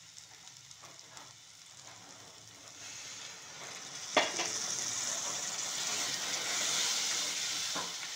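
Masala paste frying quietly in hot oil in a steel wok. About four seconds in, masala water is poured in with a sharp knock, and the pan breaks into a loud, steady hissing sizzle as the water hits the hot oil.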